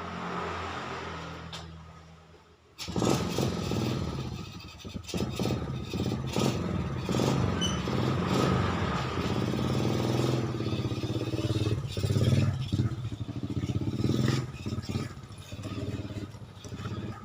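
Suzuki Satria two-stroke single-cylinder motorcycle engine running with rapid, uneven firing and fluctuating revs, starting abruptly about three seconds in after a fading hum; the engine is the one whose sound the owner calls rough.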